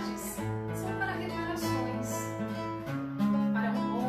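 Acoustic guitar strumming chords, with the bass note changing twice.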